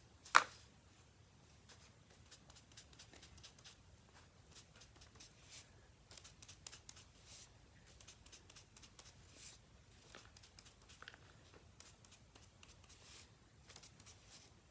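Sponge dabbing and rubbing ink onto paper: a string of faint, quick, scratchy strokes, with one sharp click about half a second in.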